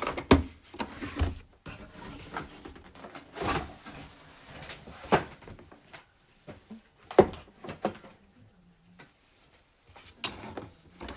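Plastic parts of a Delta coffee machine being handled, opened and closed: scattered sharp clicks and knocks, a second or more apart, with softer handling noise between them.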